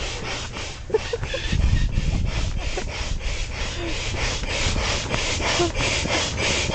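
Manual air pump worked fast and hard, a quick even rhythm of rasping strokes, about four or five a second, as it inflates an air mattress.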